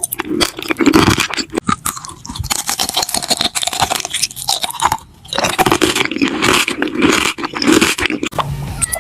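Close-miked crunchy chewing and biting, dense with crackles, with a short pause about five seconds in before the crunching starts again.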